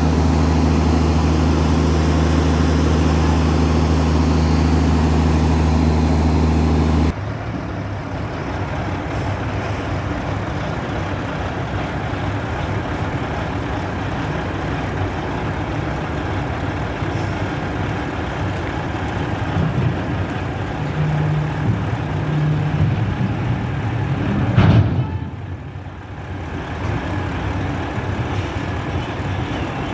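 Truck engine running. A steady low hum for about seven seconds cuts abruptly to a rougher, noisier engine rumble, with a brief louder burst near the end.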